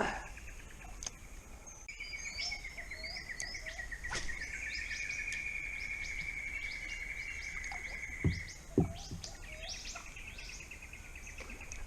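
Outdoor creekside chorus of birds chirping, with a long pulsed trill held for several seconds in the middle. Two short knocks come about two-thirds of the way through.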